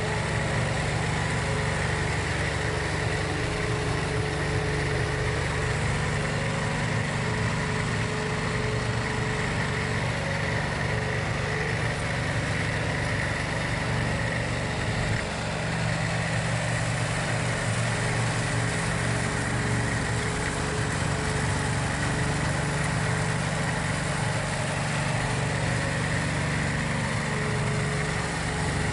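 John Deere 4110 compact tractor's three-cylinder diesel engine running steadily, with a steady high whine over it.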